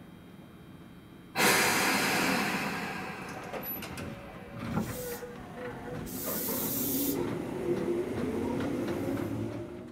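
Tobu 10030 series electric train starting off from rest. A sudden loud hiss of air about a second and a half in, typical of the air brakes releasing, is followed by a few sharp clicks and a faint whine that rises in pitch as the train begins to accelerate.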